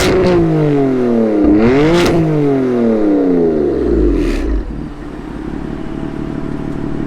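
BMW F80 M3's S55 twin-turbo inline-six revving through an M Performance exhaust with the secondary catalytic converter deleted: the revs fall away at the start, climb to a second peak about two seconds in, then drop and settle into a steady idle. A few short, sharp cracks come as the revs fall.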